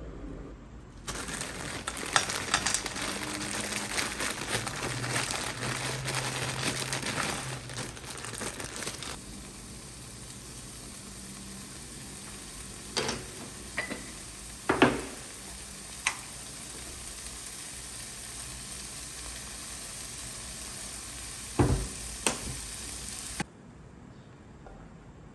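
Food sizzling and crackling in a hot frying pan, loudest for the first several seconds and then settling to a steadier sizzle, with a few sharp knocks of a utensil against the pan. It cuts off suddenly near the end.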